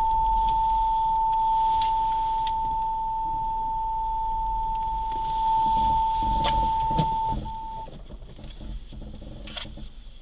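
A steady electronic beep tone held for about seven seconds, cutting off, then one short beep, over a faint low rumble.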